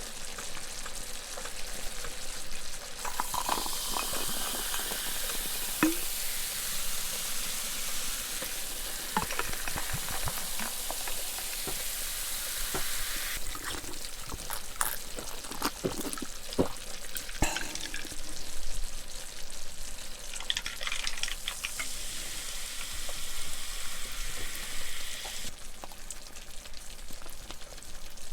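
Food sizzling in a hot pan while being stirred, with scrapes and taps of a utensil against the pan. The sizzle swells twice, for about ten seconds and then about six seconds, between quieter stretches of stirring.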